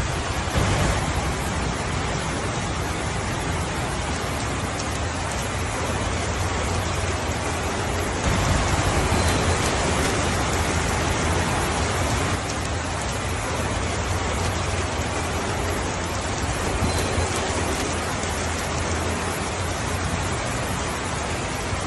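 Steady rain falling on a roof, a continuous even patter, swelling louder for a few seconds about eight seconds in.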